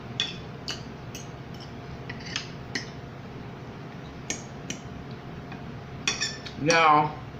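Eating at a table: scattered light clicks and clinks of cutlery against a plate, about a dozen spread irregularly, a few closer together about six seconds in. A brief voiced sound comes just before the end.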